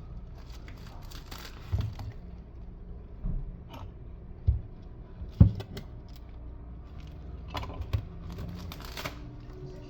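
Fibrous coconut husk being pried and torn apart, with crackling and rustling of the fibres and a few sharp knocks, the loudest about halfway through.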